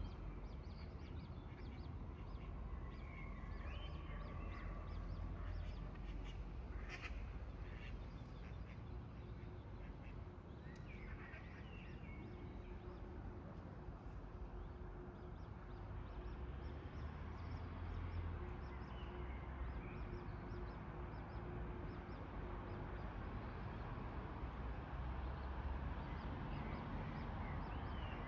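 Lakeside ambience: a steady low rumble with short waterfowl calls every several seconds. A faint steady hum runs through the middle.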